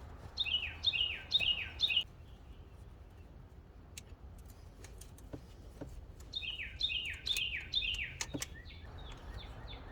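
A songbird singing two short phrases of about four quick notes each, every note sliding downward. The phrases come near the start and again about six seconds in. A few faint clicks fall between and after them.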